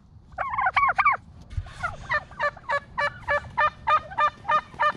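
Domestic turkeys calling: a few short pitched calls, then a steady run of short calls about three a second, during squabbling between a young turkey and an older tom.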